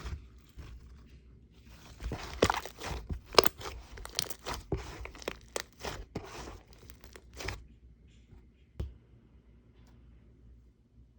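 Cement-textured slime being worked by hand, giving dense crunching and crackling for a few seconds that stops about two-thirds of the way through, followed by a single soft click.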